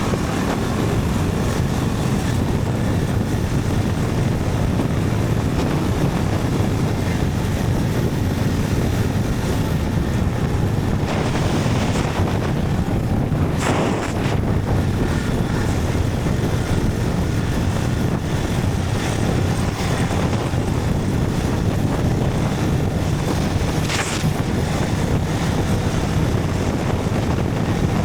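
Motorcycle riding along: steady engine drone under wind rushing over the microphone, with a brief louder hiss about halfway through.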